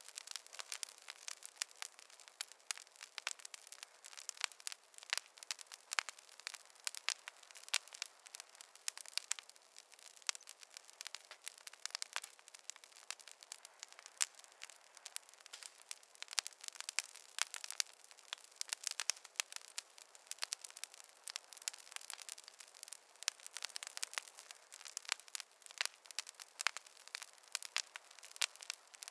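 Wood fire crackling: a dense, irregular run of sharp pops and snaps from burning logs, several a second, with no low roar beneath them.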